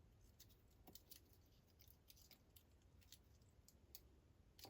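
Near silence: room tone with a low hum and a scattering of faint, short clicks, like small parts being handled.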